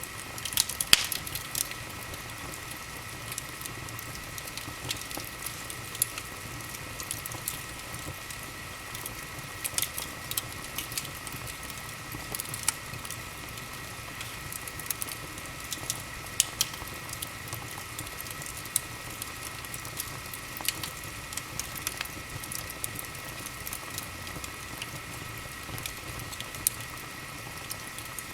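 Wood fire burning in a fireplace, crackling and popping irregularly over a steady hiss, the sharpest pops about a second in. A faint steady high tone runs underneath.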